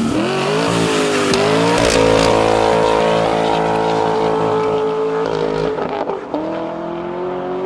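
A vehicle engine accelerating hard. Its pitch rises, drops back and climbs again, like upshifts, with a long steady high run in the middle.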